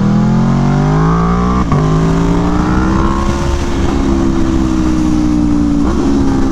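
Aprilia Tuono V4 1100 motorcycle's V4 engine through its SC-Project exhaust, pulling hard and climbing in pitch, with a short break about a second and a half in where a gear is changed. It then levels off and eases back, with another brief break near the end.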